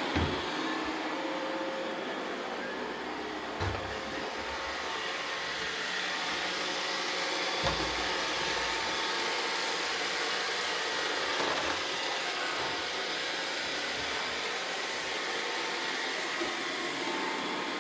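Roomba robot vacuums running steadily, their motors and brushes making an even whirring noise, with a few soft low thumps about every four seconds.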